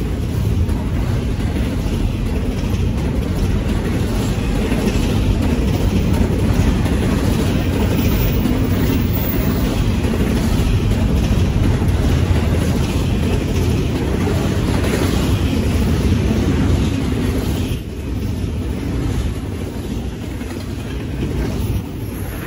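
Double-stack intermodal freight cars rolling past a grade crossing: a steady, loud rumble of steel wheels on rail, easing off a little after about eighteen seconds.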